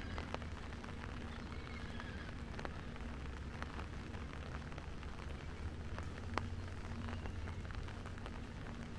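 Rain falling, with scattered sharp drops ticking close by, over a steady low hum.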